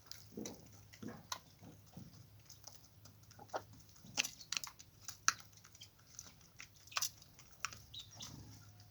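Irregular sharp taps and clicks, several a second at uneven spacing, typical of chickens pecking at feed on a hard surface.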